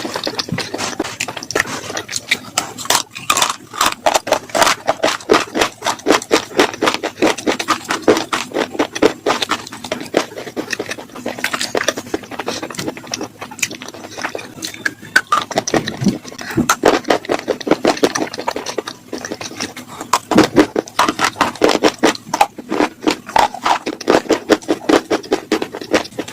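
Slate pencils being bitten and chewed: close, crisp crunching and cracking, several sharp crunches a second with short pauses between mouthfuls.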